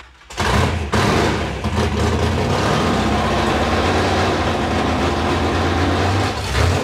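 The swapped engine of a 1956 Chevrolet 210 fires and runs on at a steady, loud level. It runs rough: the timing mark jumps everywhere, and the fault is blamed on the distributor.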